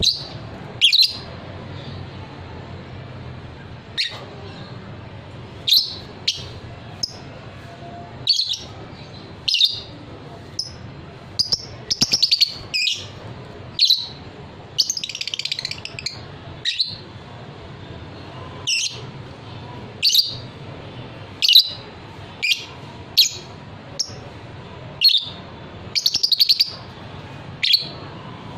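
Lovebird giving short, sharp, high chirps at irregular intervals, about one every second or two, with a longer warbling call about halfway through. A faint low hum runs underneath.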